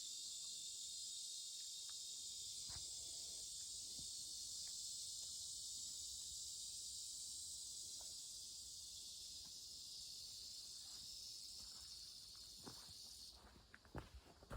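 Steady, high-pitched insect chorus that cuts off suddenly near the end, followed by a few light knocks.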